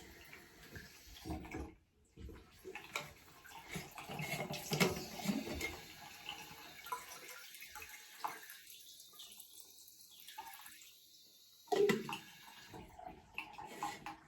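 Water running from a tap in a bathroom, with scattered knocks of handling and one louder knock near the end.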